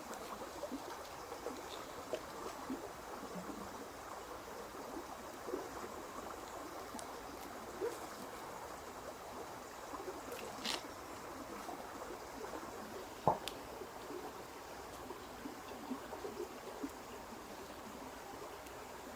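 Steady, watery trickling noise with a scattering of light ticks and two sharper clicks, about ten and thirteen seconds in.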